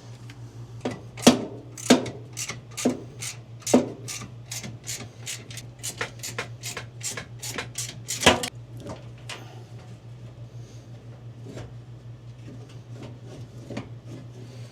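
Hand tools clicking and tapping on the metal parts of a dryer's motor mount: a quick run of sharp clicks about three a second that thins out to scattered faint ticks after about eight seconds, over a steady low hum.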